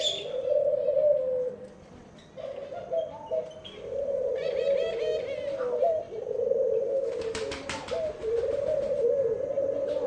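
Pigeons cooing almost without pause, a warbling coo with a brief dip about two seconds in. Bouts of higher-pitched chirping come in twice, and a short rattle of clicks sounds about seven seconds in.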